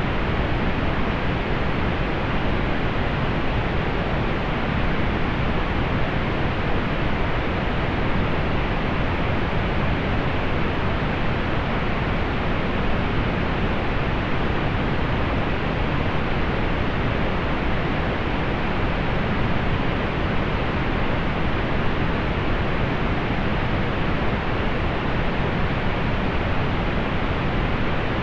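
Steady generated pink noise: a constant, even hiss with its highest frequencies softened, unchanging throughout.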